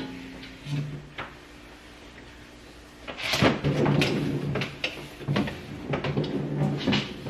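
Refrigerator drawers and plastic trays being pulled out and handled: a few separate knocks, then busier clattering and sliding from about three seconds in.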